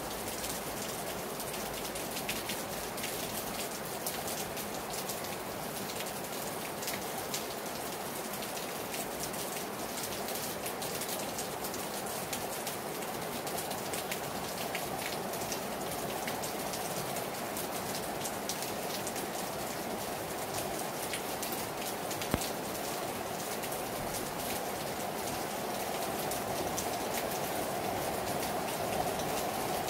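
Hard rain falling on a terrace: a steady, dense patter of drops striking the surface, with one louder tap about two-thirds of the way through.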